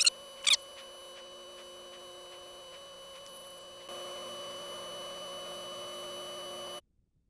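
Steady electrical hum made of several fixed tones, a little louder from about four seconds in, then cutting off abruptly.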